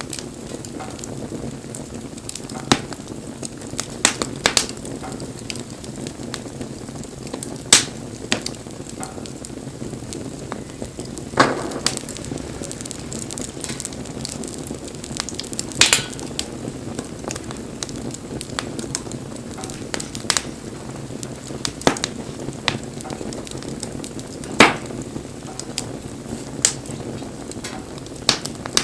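Wood fire burning with a steady low roar and irregular sharp crackles and pops from the burning wood, a few of them louder than the rest.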